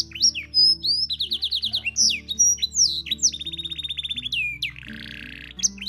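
Domestic canary singing: sweeping whistled notes, two fast rattling trills and a harsh buzzy note near the end, the kind of song played to young canaries as a tutor. Soft background music with low held notes runs underneath.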